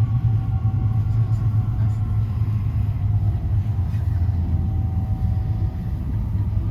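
E5 series Shinkansen train at the platform: a loud, steady low rumble with faint steady whine tones above it that fade out near the end.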